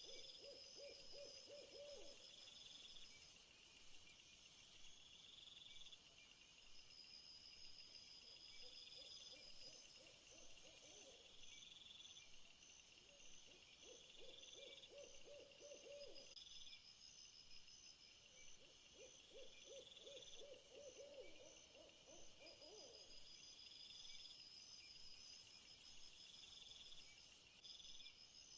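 Faint night ambience of insects such as crickets chirring in steady, high, pulsing rhythms. A low trilling call, a rapid run of notes lasting two to four seconds, comes four times.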